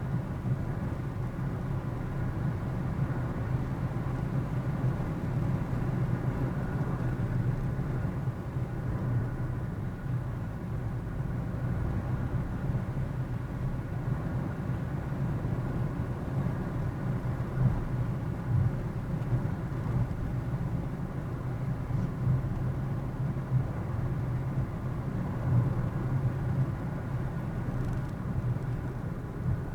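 Steady engine and road noise of a car driving along, heard from inside the cabin through a dashcam.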